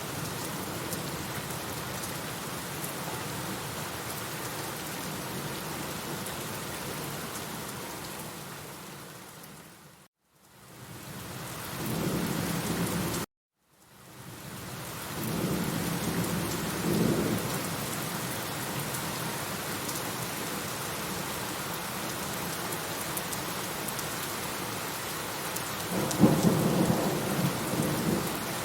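Steady rain with rolls of thunder, the loudest rumble near the end. About ten seconds in, the rain fades out to silence and comes back. A few seconds later it cuts off abruptly for about half a second, then fades back in.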